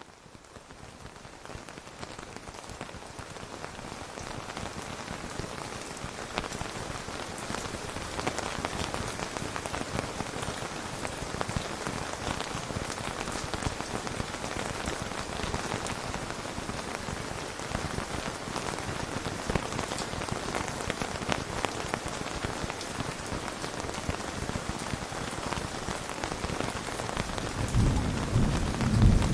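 Steady rain pattering on a surface, fading in over the first few seconds. Near the end a low rumble of thunder builds.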